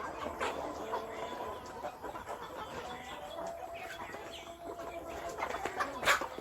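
Several chickens clucking at once in overlapping short calls, with a sharp loud knock near the end.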